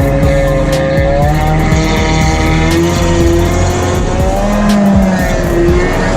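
Kawasaki JS550 stand-up jet ski's two-stroke engine running under way, its pitch rising and falling as the throttle changes, with sharp slaps about once a second.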